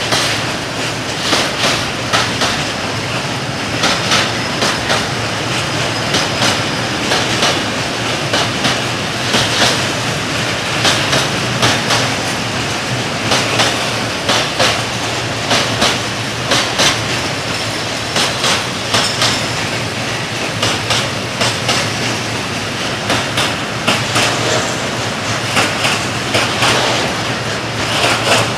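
Freight train of tank wagons rolling past close by, the wheels clattering over rail joints in repeated groups of clicks as each bogie passes, over a steady rolling noise.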